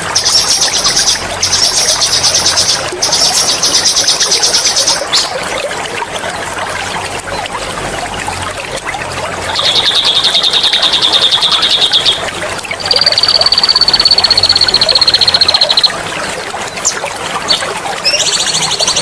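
Songbird singing loud, fast rolling trills (ngerol) in separate bouts: three high rattling trills in the first five seconds, a lower trill around the middle, then a long, buzzy, steady whistle. Throughout there is an even trickle of running water.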